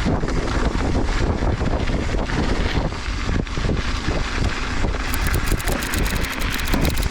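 Wind buffeting a helmet-mounted action camera's microphone while a mountain bike rolls over rough volcanic ground, a steady rumble that starts abruptly. From about five seconds in, a rapid clicking and rattling joins it.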